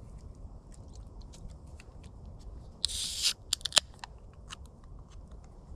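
A beer can being opened: a short burst of hiss about three seconds in, followed by a few sharp clicks.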